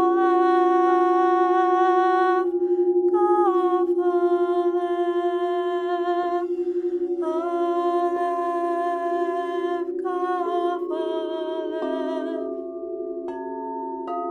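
A singing bowl rings steadily with a slow wobble in its tone. Over it, a woman's voice tones long held notes of two or three seconds each, shifting pitch from one note to the next with short gaps between them.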